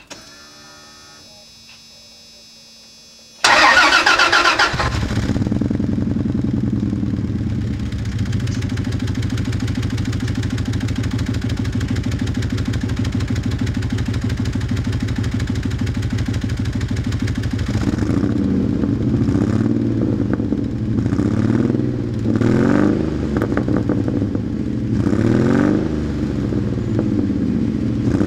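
1997 Dodge Ram 1500's 3.9-litre V6 through a glass-pack exhaust, started a few seconds in, idling with a misfire, then blipped with several short revs over the last ten seconds.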